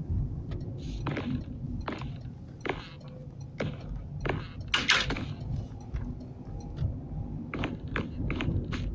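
A dozen or so irregular clicks and knocks, the loudest about five seconds in, over a steady low rumble.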